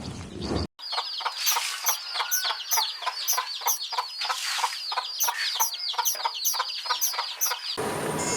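Chickens calling: a fast, continuous run of high calls that each drop in pitch, several a second, for about seven seconds.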